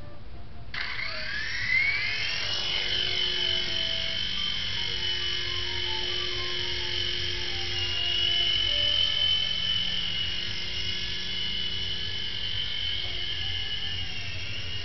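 Small toy RC helicopter's electric rotor motors spinning up for takeoff: a whine that starts about a second in, rises in pitch, then settles into a steady high whine as it flies.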